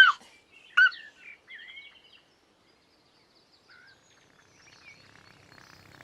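A few short bird-like chirps in the first two seconds, then quiet, with a faint low hum starting to rise near the end.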